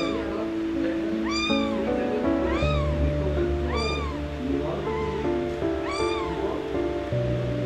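Kitten meowing over and over, about once a second, each cry rising and falling in pitch, over background music with sustained notes.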